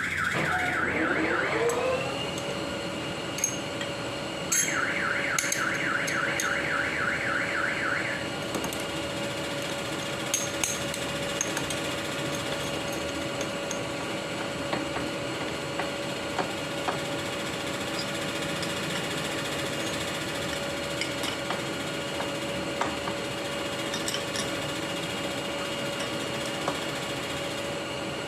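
Milling machine motor spinning up, its whine rising in pitch over about two seconds and then running steadily at speed, with light clicks now and then. A fast warbling high tone sounds briefly at the start and again for about three and a half seconds a few seconds in.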